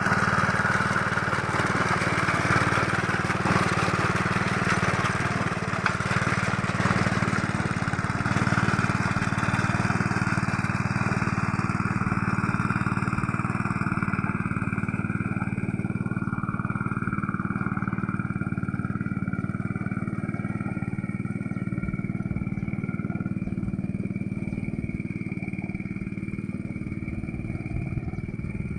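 Small two-wheel hand tractor's engine running steadily as it works through deep paddy mud. The note is brighter and a little louder for the first dozen seconds, then settles lower.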